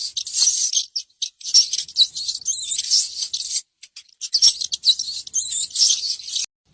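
High-pitched squeaking and chirping of a small animal, in bursts of about two seconds broken by short pauses.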